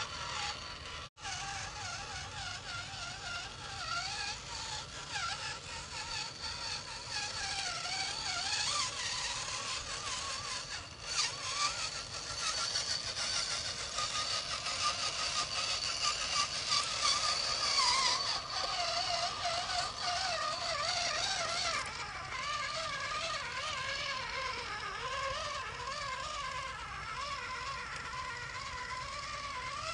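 Scale RC truck's motor and drivetrain whining as it drives, the pitch wavering up and down with the throttle. The sound drops out briefly about a second in.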